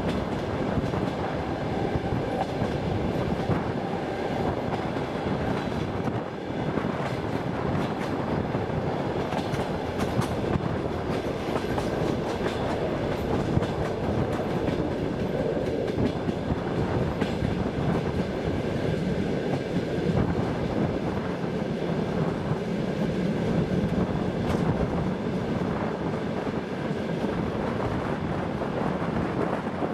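Express passenger train running along the track, heard from aboard: a steady rumble of wheels on the rails with occasional clacks over the rail joints.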